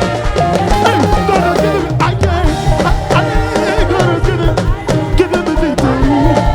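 Live band playing upbeat worship music, with drums and percussion driving a steady beat under pitched melodic lines.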